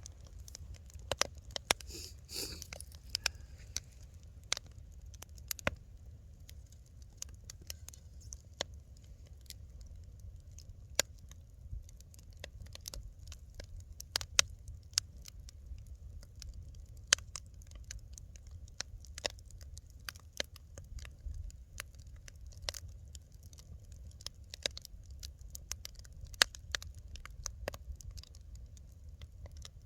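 Wood fire in a fireplace crackling: irregular sharp snaps and pops, several a second with occasional louder ones, over a steady low rumble.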